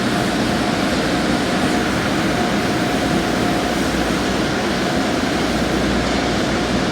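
Car wash machinery running: a steady rushing noise with a faint thin whine that comes and goes.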